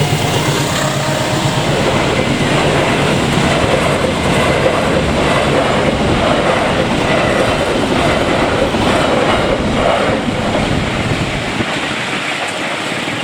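Long-distance train passing close by, a loud steady roar and rattle of wheels on the rails that eases slightly near the end.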